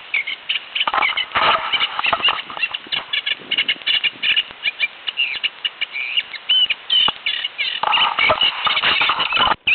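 A small songbird in the reeds singing a long, fast, varied run of short notes and brief whistles; the singer names it only tentatively, as a reed warbler. About eight seconds in, a stretch of rushing noise rises under the song for a second or so.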